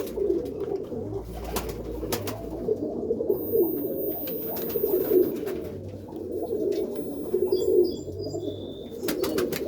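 Several Birmingham roller pigeons cooing, their low coos overlapping continuously, with a few clicks near the end.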